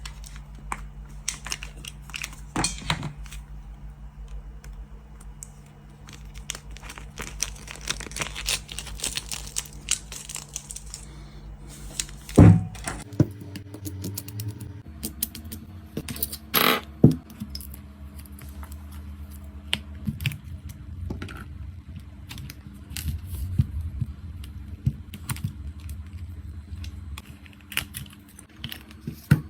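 Small clicks, taps and rattles of tools and phone parts being handled during an iPhone screen repair, over a steady low hum that shifts abruptly twice, about 12 and 15 seconds in.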